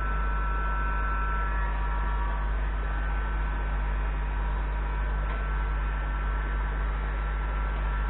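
Steady low electrical-sounding hum with some hiss, and faint high steady tones that fade out in the first few seconds.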